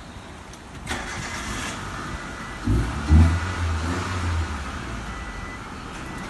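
Proton Wira's engine being started: the starter turns it over for a couple of seconds, the engine catches about three seconds in, runs briefly fast, then settles to a steady idle.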